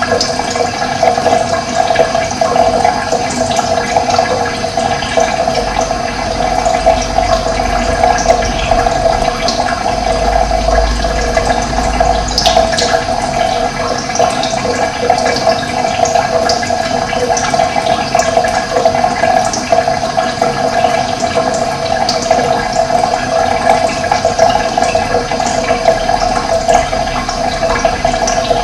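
Running water flowing steadily in an even, continuous rush.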